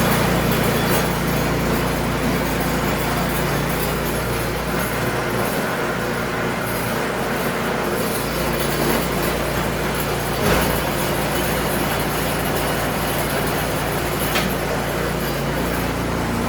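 Craftsman snowblower's four-stroke engine running steadily while it is put through its gears and auger engagement. The note shifts partway through, with a short clunk later on and a click near the end.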